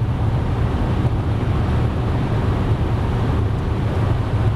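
The twin-supercharged V10 (S85) of a G-Power BMW M5 Hurricane, heard from inside the cabin at about 210 km/h, runs with a steady low drone under wind and road noise. It is under light acceleration.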